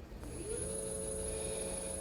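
B.S.B cordless mini car vacuum's small motor switching on, its whine rising as it spins up about half a second in, then running at a steady pitch with a thin high whine above it.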